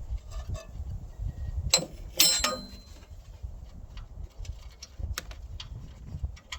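Irregular metallic clicks and clanks of hand tools working on bolts, the loudest two a little under two seconds in and just after two seconds, with a short ring, then scattered fainter ticks over a low rumble.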